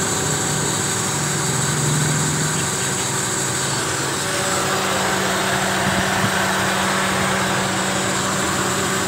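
Carbureted car engine in a Kia Pride idling steadily, its pitch stepping up a little about three seconds in.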